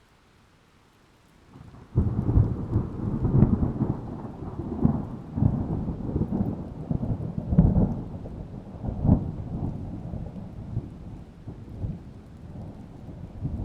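Thunder over rain: a sudden loud clap about two seconds in, then rolling rumble with several swells that gradually die away.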